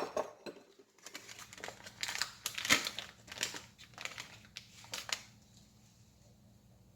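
A wrapper crinkling and rustling in irregular bursts as it is handled, stopping about five seconds in.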